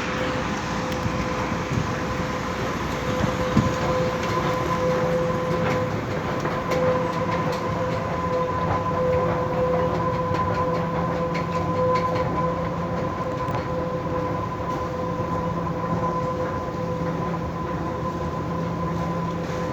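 Metro station escalator running noisily: a steady mechanical drone with a constant whine, and scattered light clicks and rattles from the moving steps.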